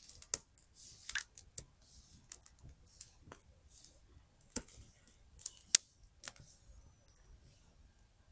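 Wood fire crackling: irregular sharp pops and snaps of burning firewood, with soft hissing puffs between them. The loudest pops come just after the start and at about four and a half and six seconds in.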